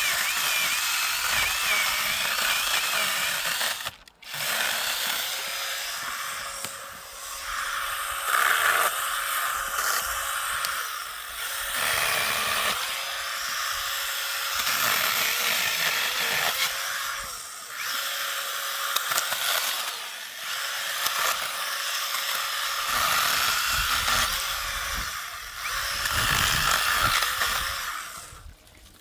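A small motor or power tool running steadily, its level rising and falling every few seconds, with a brief cut-out about four seconds in and dying away near the end.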